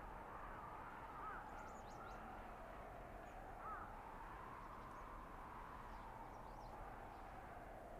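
Blizzard wind in a winter forest: a steady rush of wind with a howling whistle that slowly rises and falls in pitch, and a couple of brief squeaky calls in the first half.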